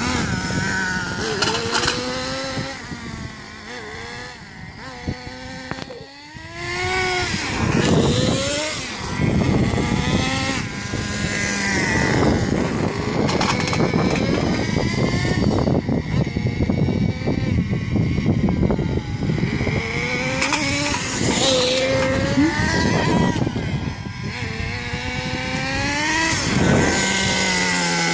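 HPI MT2 nitro RC truck's small two-stroke glow engine revving up and down as the truck is driven. Its pitch rises and falls again and again, and it drops to a quieter low run for a couple of seconds about five seconds in.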